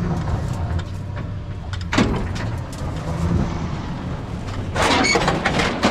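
Old Ford F700 dump truck running and moving, with a steady low hum from its engine. There is a sharp knock about two seconds in and a louder burst of clattering noise near the end.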